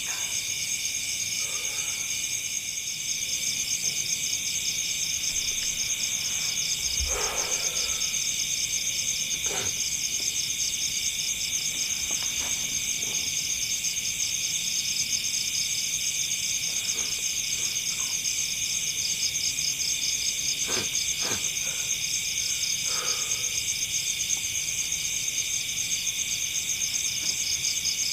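Night chorus of crickets and other insects, a steady high-pitched, finely pulsing trilling, with a few faint knocks and rustles close by.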